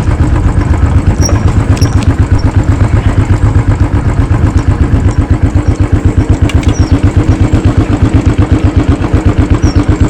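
Motorcycle engine running steadily with a rapid, even low thudding of its firing pulses.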